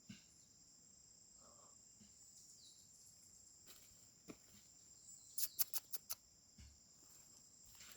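Faint, steady high trill of insects in the forest, with a quick run of sharp clicks about five and a half seconds in and a short falling chirp earlier on.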